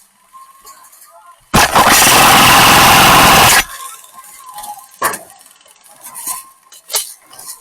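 Airsoft gun fire close to the microphone: one loud, continuous burst of about two seconds that starts and stops abruptly, then a few sharp single cracks near the end.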